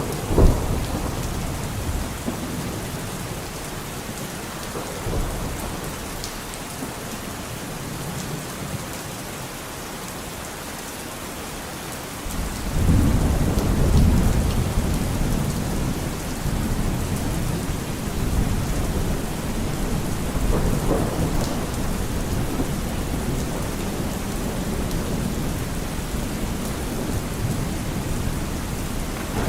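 Steady rain with thunder: a sharp thunderclap just after the start, then a long low rolling rumble of thunder that starts about halfway through and keeps going.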